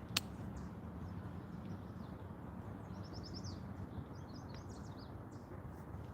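Outdoor background noise with a steady low rumble. A songbird gives a quick run of high chirps about three seconds in, followed by a few more chirps. A single sharp click comes right at the start.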